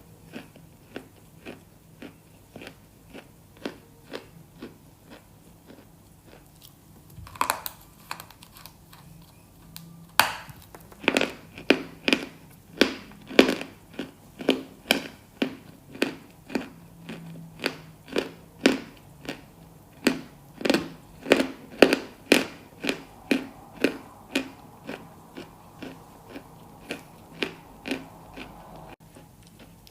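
Close-miked crunchy chewing: a person biting and chewing something hard and brittle, crunching in an even rhythm of about one and a half strokes a second. The crunches are soft at first, with one sharp bite about seven seconds in, and grow much louder from about ten seconds on.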